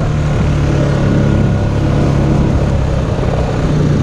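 Steady mechanical noise from an idling off-road vehicle engine mixed with a helicopter's rotor close by.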